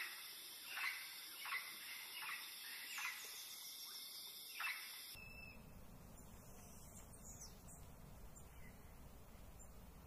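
A bird's short calls, each sweeping downward in pitch, repeated about six times under a steady high-pitched insect drone. At about five seconds the ambience cuts to a quieter background with a low rumble and a few faint chirps.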